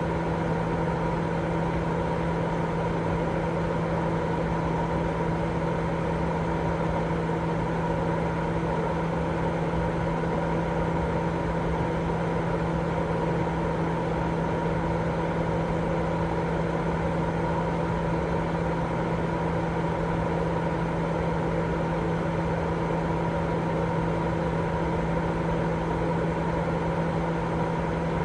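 Steady baby sleep white noise: an unbroken low rushing hiss with a constant low hum running beneath it, unchanging throughout.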